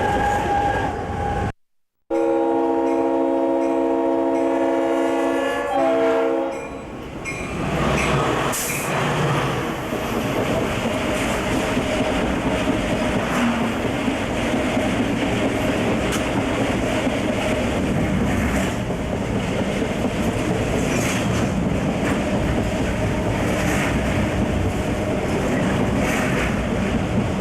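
Conrail diesel locomotive's air horn sounding one long blast of about four seconds, shortly after a brief gap. The horn gives way to the steady running noise and rail clatter of the moving train.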